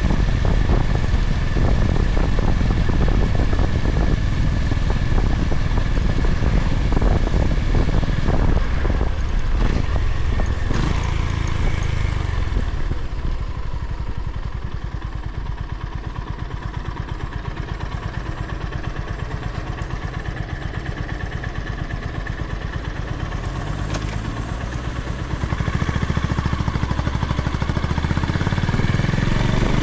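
Honda GB350's single-cylinder engine under way with wind and road noise, easing down to a steady idle about 13 seconds in, then pulling away again about 25 seconds in.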